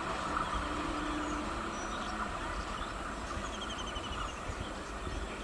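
Electric multiple-unit (EMU) local train running with a steady rumble and hiss that slowly grows quieter. A bird gives a short rapid trill a little past halfway.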